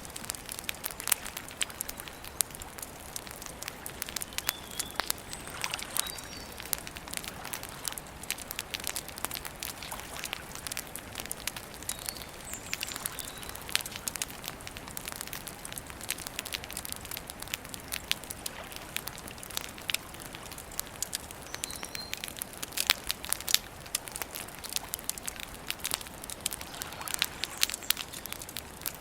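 Wood campfire crackling steadily, with frequent irregular sharp pops and snaps over a soft hiss. Faint short bird chirps come through now and then.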